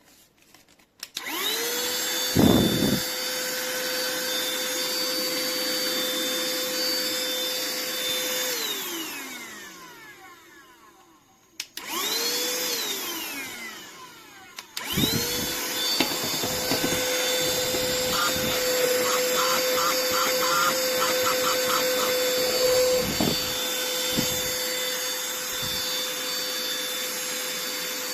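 SIMWAL cordless handheld vacuum cleaner switched on, its motor spinning up to a steady high whine, then switched off and winding down. It is started and stopped again briefly, then switched on once more and runs steadily, with a few knocks and a short patch of rattling, before winding down near the end.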